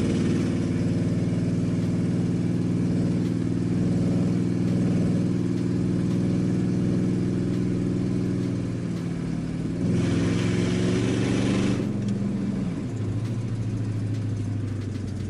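Chrysler 300C's 5.7 L Hemi V8 running steadily, with a louder rev lasting about two seconds around ten seconds in.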